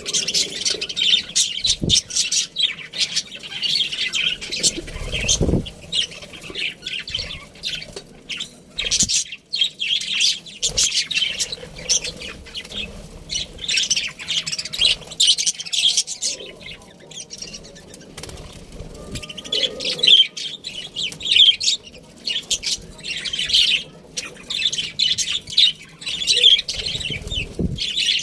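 Budgerigars chirping and chattering rapidly and continuously, with a few soft low thumps.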